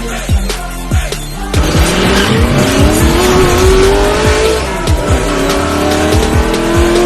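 Outro music with a steady electronic beat, joined about a second and a half in by a car engine revving sound effect whose pitch climbs, drops back and climbs again, like a car accelerating through a gear change.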